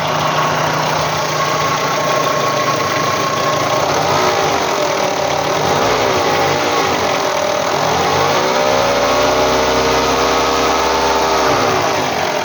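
Renault Kangoo's K7J 1.4-litre four-cylinder petrol engine idling with a strange extraneous knocking noise, revved briefly about four seconds in and then held at higher revs for a few seconds before dropping back. The owner suspects a worn accessory-drive idler pulley, the timing belt roller or the water pump.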